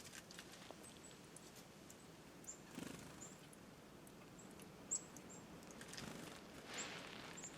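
Chickadees giving short, high, faint call notes scattered throughout, with soft rustling around three and seven seconds in.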